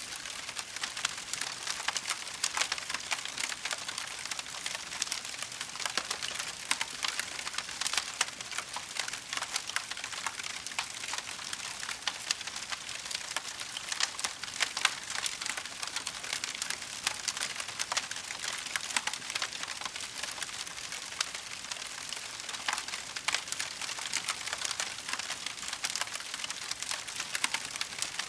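Wood fire crackling steadily: a dense run of small sharp cracks and pops over a soft hiss.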